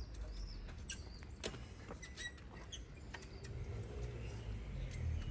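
Rusted steel motorcycle exhaust pipe being worked loose by hand: scattered metal clicks and knocks with a few short squeaks of metal rubbing on metal.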